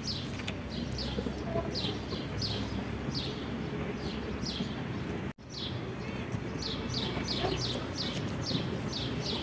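Small birds chirping: a string of short, high, downward-sliding chirps about every half second, over a steady low background noise. There is a brief dropout about five seconds in.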